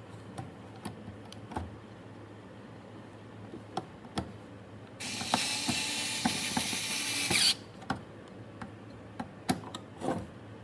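Electric screwdriver running for about two and a half seconds, from about five seconds in, driving a screw into the power supply case. Small clicks and knocks from handling the screwdriver and parts come before and after it.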